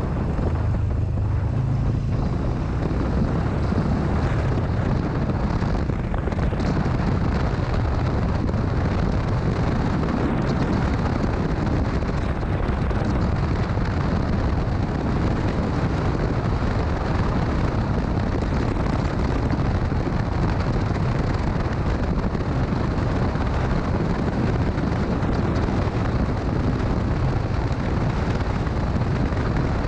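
Motorcycle riding at a steady speed: wind rushing over the microphone over a low, steady rumble.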